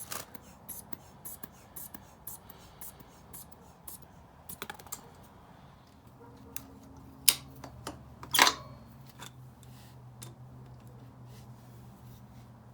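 Hand tools and metal parts being handled: a run of small clicks and light taps, with two sharper knocks about seven and eight and a half seconds in. A low steady hum starts about six seconds in.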